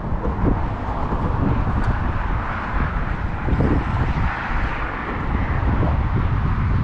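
Strong wind buffeting the microphone: a loud, steady rumbling rush with gusts swelling and easing.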